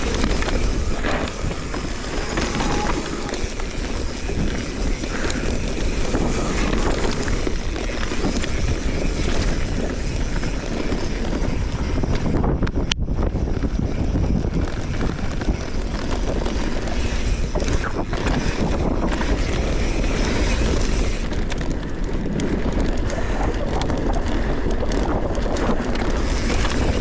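Steady wind rush on the microphone and the rattle and tyre noise of a bike being ridden fast down a rough trail. There is one sharp click about halfway through.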